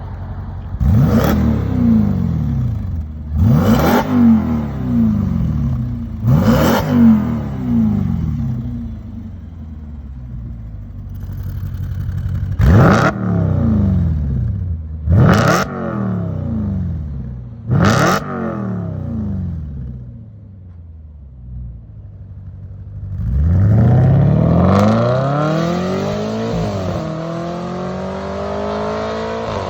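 Audi RS5's V8 through a Capristo cat-back exhaust, free-revved in sharp blips from idle: three quick revs, a pause at idle, then three more, each snapping up and falling back slowly. Near the end comes a longer, slower rev that is held briefly before dropping, and then the engine note rises again.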